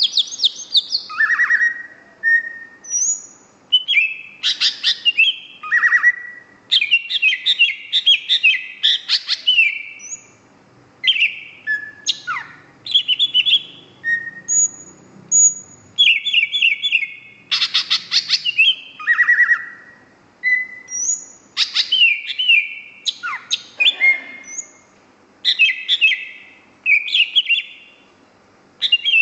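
A small green pet bird chirping and whistling: clusters of quick, high chirps and trills broken by short pauses, with the odd single whistled note between them.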